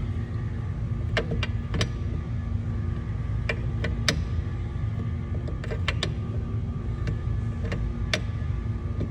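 Irregular metallic clicks and taps of a wrench working on a threaded fuel fitting as it is tightened, about nine in all, over a steady low hum.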